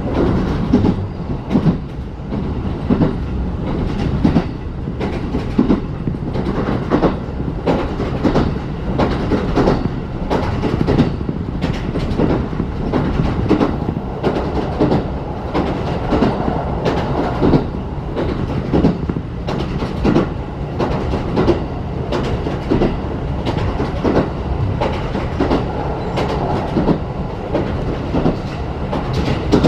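Ride noise inside a 35-series passenger coach on the move: a steady low rumble of wheels on rail, with wheels clacking over rail joints several times a second.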